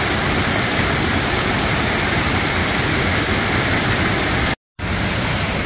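Waterfall rushing, a steady loud wash of falling water that breaks off completely for a fraction of a second about four and a half seconds in.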